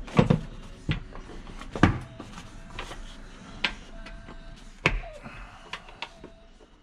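A handful of separate knocks and clicks, several seconds apart, from parts being handled and set in place during a jet ski engine service.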